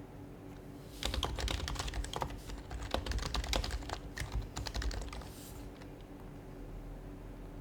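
Fast typing on an HHKB Professional HYBRID Type-S keyboard with Topre capacitive switches: a quick run of soft, muted keystrokes that starts about a second in and stops after about four seconds.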